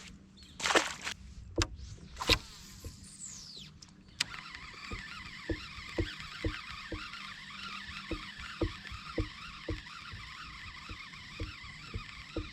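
A fishing cast and retrieve: two sharp clicks with a falling whine as line pays out. Then, from about four seconds in, a steady reel whir with a regular ticking about twice a second as the lure is cranked back.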